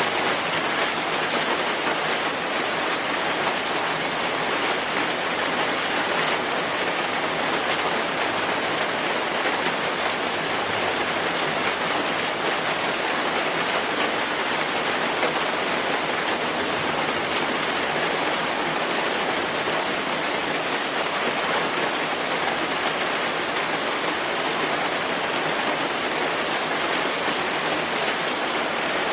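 Steady rainfall, a constant even hiss of rain falling on surfaces with fine scattered drop patter.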